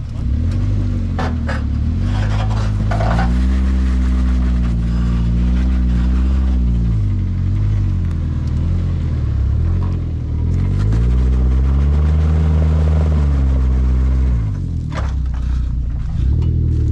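A four-wheel drive's engine revving hard under load. It rises in pitch, holds for a few seconds and drops back, doing this twice: about three to seven seconds in, and again from about ten to fourteen seconds.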